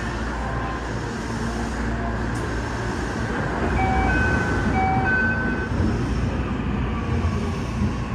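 Train running past on the adjacent track in an underground station, a low rumble that grows louder midway as it goes by. Two short, even-pitched tones sound about a second apart near the middle.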